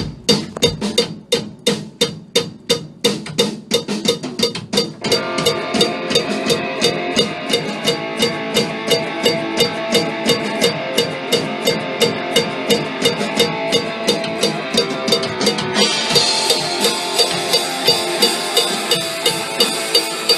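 Drum kit playing a song's intro as a steady run of hits, about three or four a second, with the hi-hat held shut under the foot to stop it sizzling. A band track with guitar joins about five seconds in, and the sound turns brighter and fuller from about sixteen seconds.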